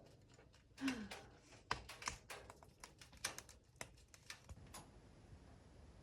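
A quick run of light, irregular clicks and taps, with a brief falling squeak about a second in.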